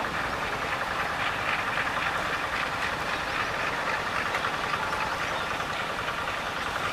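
CC 201 (GE U18C) diesel-electric locomotive running steadily while it moves a train of old two-axle wagons at a crawl of about 10 km/h, the wagons' wheels rolling slowly over the rails.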